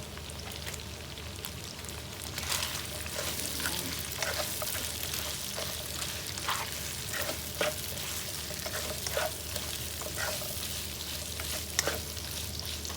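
Carrots, shredded chicken and sliced hotdog sautéing in oil in a pot, sizzling steadily, with scattered clicks and scrapes of a utensil stirring them.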